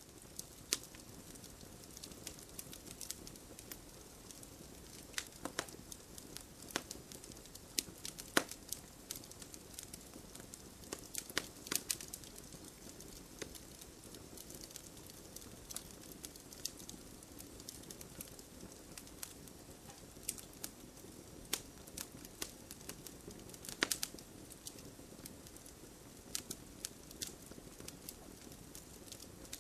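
Wood campfire crackling: sharp, irregular snaps and pops over a low steady hiss of burning, with a few louder pops spread through.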